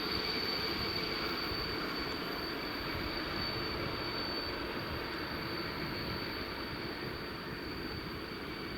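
Train rolling slowly with a steady, high-pitched wheel squeal over a low rumble, the squeal fading a little past the middle.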